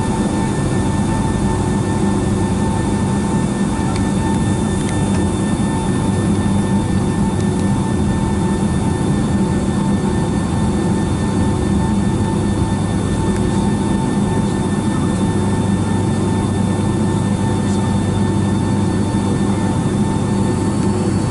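Boeing 757-200's jet engines at low taxi thrust heard from inside the passenger cabin: a steady hum with a constant whine.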